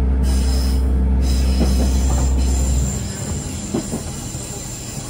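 Interior of a diesel railcar under way: the diesel engine's steady low drone over the rumble of the wheels on the rails. About three seconds in, the engine note drops away and the level falls, leaving the quieter running noise of the wheels on the track as the railcar coasts.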